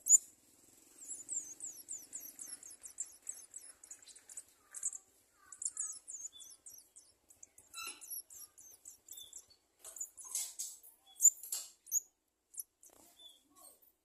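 Garden sunbird nestlings begging: rapid runs of very high, thin chirps, coming in bursts, with a few sharp clicks, the loudest near the start.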